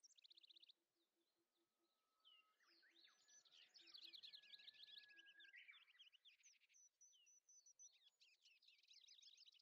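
Faint birdsong: several small birds chirping and trilling in quick runs, with a few short pauses.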